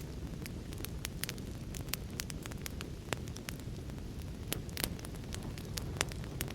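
Wood fire crackling, with irregular sharp pops and snaps several times a second, over a steady low rumble of rain.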